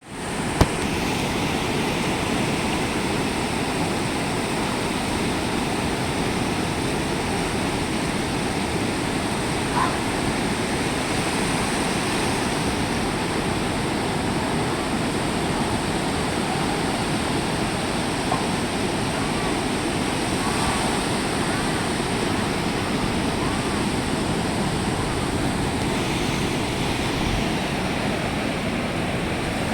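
Sea surf washing steadily onto the beach, an even rushing noise of breaking waves. A brief sharp click comes just after the start.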